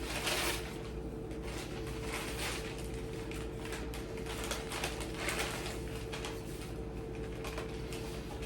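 Soft rustling and small knocks of objects being handled, over a steady hum.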